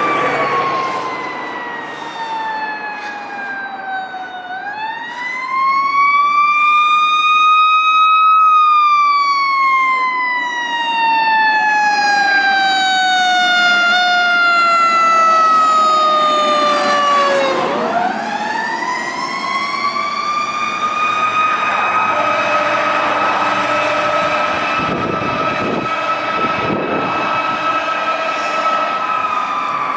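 Fire engine siren wailing, its pitch sweeping slowly down and up and then holding high for several seconds before starting to fall again near the end.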